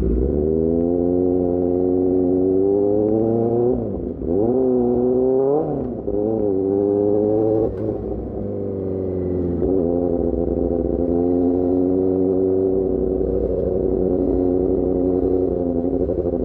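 Motorcycle engine through an aftermarket AR GP1R exhaust, heard from the rider's helmet. It pulls up through the revs for about four seconds, then the pitch drops and swings up and down in a few quick throttle changes. From about ten seconds in it settles into a steady run with the revs rising slowly.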